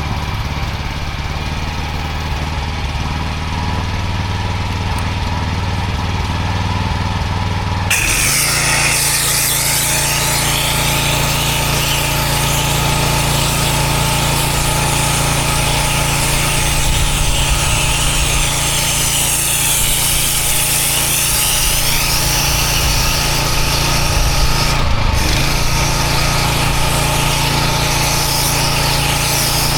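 Engine of the cleaning rig running steadily. About eight seconds in, a spray starts hissing as the Hypo (sodium hypochlorite) solution is applied, and the engine note changes under the load. The spray cuts out briefly near the 25-second mark.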